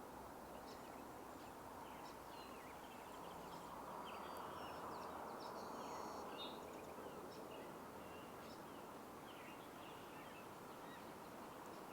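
Faint outdoor background: a steady low rush of noise, slightly louder around the middle, with scattered faint distant bird chirps and short whistles.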